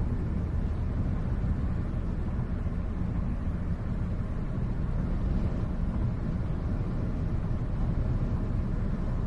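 Steady low rumble of a vehicle, with no revving or change in pitch.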